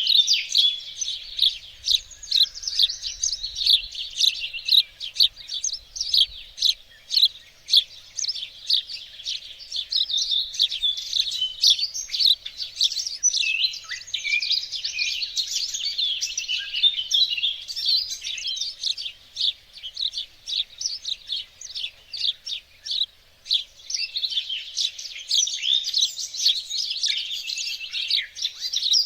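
Several small songbirds chirping and singing at once in a dense, continuous chorus of quick high-pitched notes and trills.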